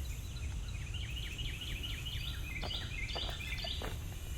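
A songbird singing a rapid run of short repeated notes, about four a second, over a low steady outdoor rumble. A few faint clicks sound in the second half.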